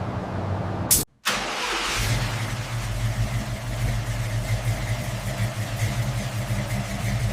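1971 Plymouth Hemi 'Cuda's 426 Hemi V8 running at a steady idle, after a brief dropout about a second in.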